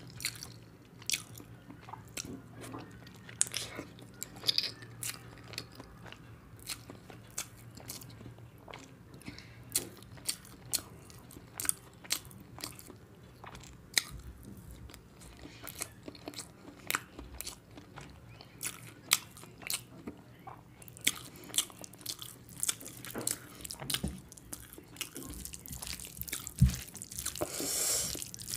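Close-up eating sounds: a person biting into and chewing a curry-coated boiled egg, with many sharp wet mouth clicks and smacks. Near the end, a hand mixing rice with curry on the plate, a brief swell of squishing noise.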